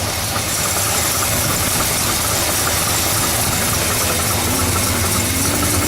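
1970 Oldsmobile Cutlass's 403 V8 idling steadily while still a little cold, with a rattle that the owner puts down to the exhaust header hitting the frame.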